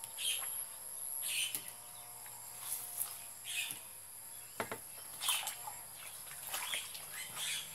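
Birds chirping in short calls about once a second, over a steady high-pitched whine, with a couple of sharp knocks from hands working near the middle.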